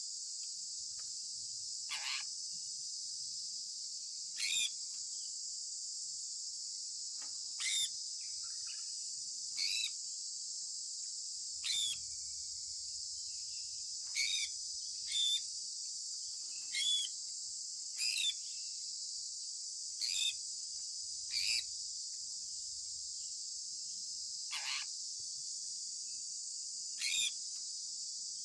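Sun conure parrot giving short, sharp chirps, about thirteen of them spaced a second or two apart, each sweeping down in pitch, over a steady high hiss.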